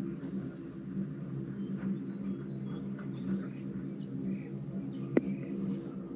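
Steady high-pitched insect chorus over a low, steady hum from the moving cable car gondola. A single sharp click comes about five seconds in.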